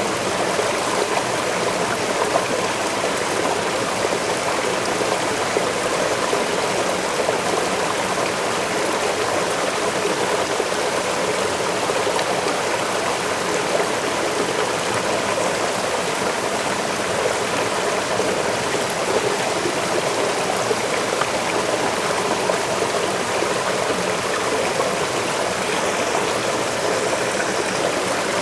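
Waterfall water falling and running, a steady even splashing hiss with no breaks or distinct events.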